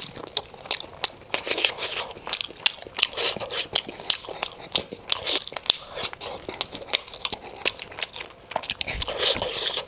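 A person chewing and biting steamed momo dumplings dipped in chutney, with a close, irregular run of sharp mouth clicks and chewing noises.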